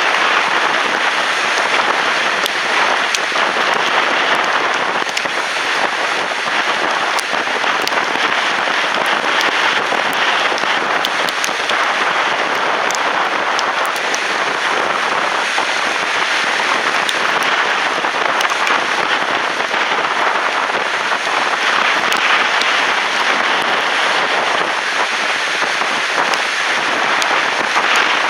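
Strong wind at the lake shore: a steady, loud hissing rush with scattered sharp crackles.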